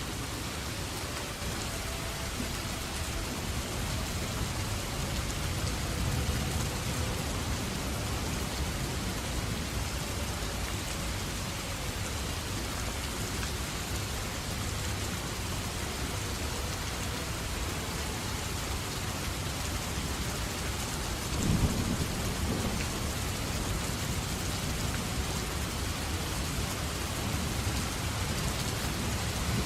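Steady heavy rain falling, with low rolling thunder rumbling underneath. A sharper, louder thunder peal breaks about three quarters of the way through.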